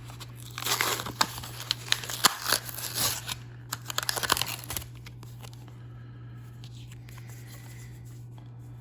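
Tearing and crinkling of a Hot Wheels blister pack, cardboard and plastic, with sharp clicks, as a die-cast car is opened; it stops about five seconds in. A low steady hum runs underneath.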